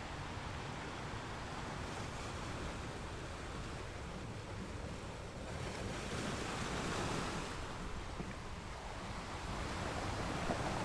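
Ocean surf breaking and washing in below, with wind buffeting the microphone; the rush of the surf swells about six seconds in and again near the end.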